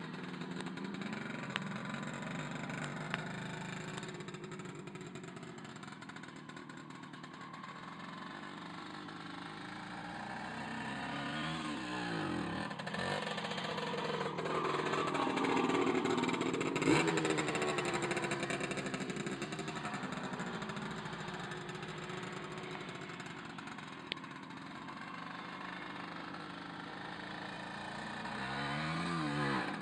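Puch MC 175 two-stroke single-cylinder motocross engine running, with the throttle opened and closed a few times so the pitch rises and falls. The loudest revving comes about halfway through, and the engine revs up again near the end.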